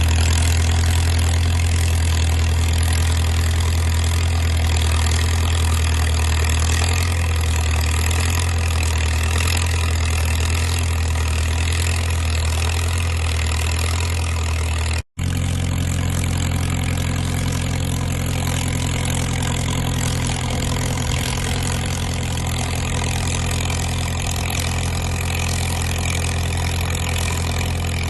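A Caterpillar crawler dozer's diesel engine running steadily with a strong low drone. The sound cuts out for an instant about halfway through and then carries on.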